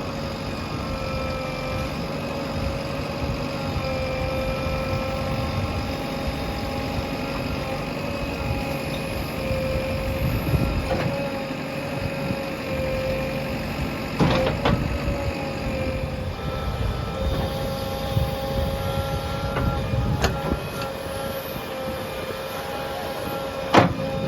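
JCB backhoe loader running steadily under digging work, with a constant whine over the engine rumble. Several sharp knocks of the bucket and arm come through, the loudest near the end.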